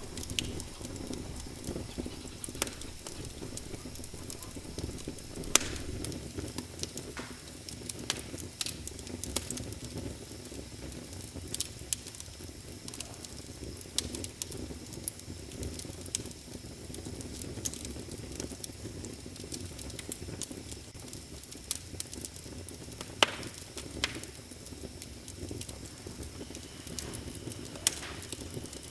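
Wood fire crackling, with sharp, irregular pops scattered over a low, steady rumble of the flames.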